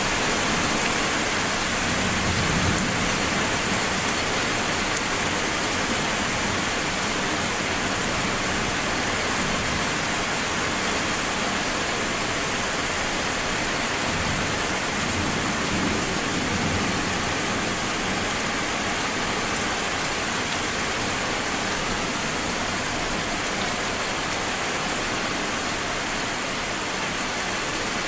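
Steady, heavy rain. Low rumbles of distant thunder swell up a couple of seconds in and again about halfway through.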